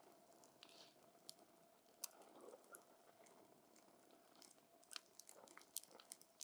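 Wood campfire crackling faintly: scattered sharp pops and snaps at irregular intervals, coming more often in the second half, over a soft hiss of burning wood.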